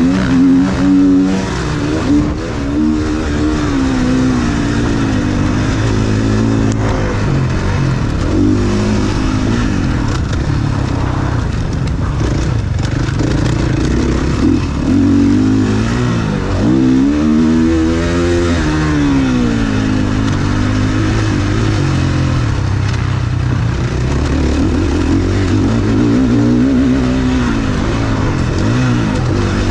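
Motocross bike engine racing around a dirt track, revving up on the throttle and dropping back again and again through the corners and straights, with a large rise and fall in pitch about two-thirds of the way through.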